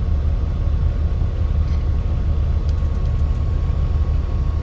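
A truck's engine and road noise while driving: a steady low rumble with a faint constant whine.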